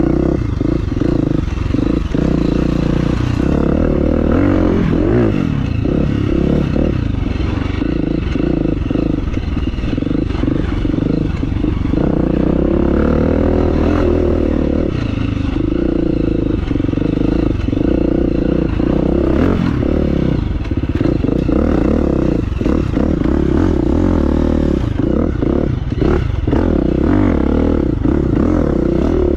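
Dirt bike engine running at low trail speed, its pitch rising and falling with the throttle, over a clatter of knocks from the rough ground.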